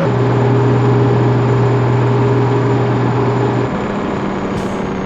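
Scania 110 truck's 11-litre six-cylinder diesel engine running while under way, a steady loud drone. About three and a half seconds in the drone abruptly drops in level and changes pitch, with a brief click shortly after.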